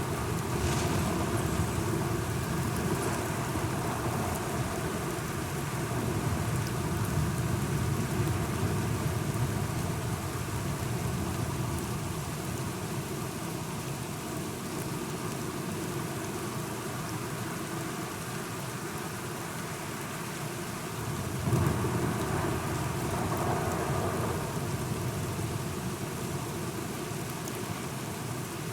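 Steady rain falling, with low rolling thunder under it. A sudden louder rumble of thunder comes about three quarters of the way through.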